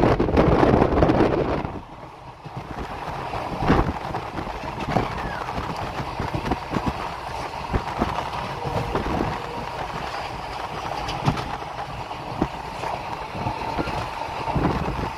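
Passenger train running on the rails, its wheels knocking over rail joints in irregular clicks over a steady rolling noise. There is a loud rush of wind on the microphone in the first couple of seconds.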